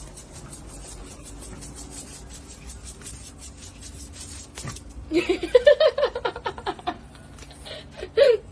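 A dog whining in a run of short cries that rise and fall in pitch, about five seconds in, with one more cry near the end. Before that there is only faint, rapid clicking over room noise.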